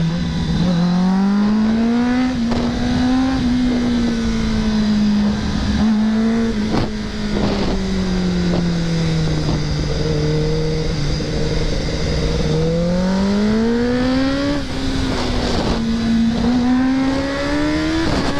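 Kawasaki ZX-10R inline-four sport bike engine running under the rider through a stretch of canyon road: the engine note climbs, then slowly falls for several seconds as the bike slows, then rises again with short dips at the gear changes. Steady wind rush on the microphone underneath.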